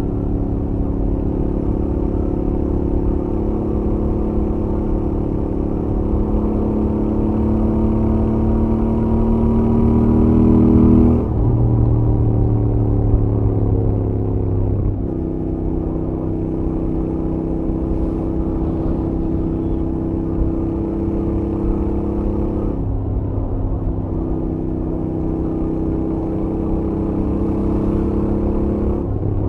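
Stock Royal Enfield Interceptor 650's parallel-twin engine and exhaust on a highway run. The revs rise for about ten seconds, drop suddenly as it shifts up, then settle into a steady cruise with a few small changes in pitch.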